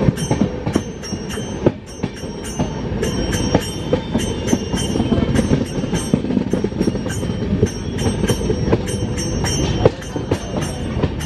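Indian Railways express train running, heard from on board the coach: a steady rumble of the wheels with many irregular clacks over rail joints and points, and a thin high-pitched wheel squeal.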